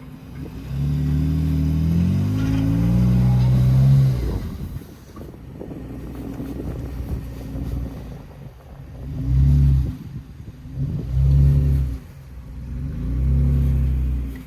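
Off-road Jeep engine revving under load while climbing over lumpy avalanche snow. A long rising rev in the first four seconds, then three shorter bursts of throttle.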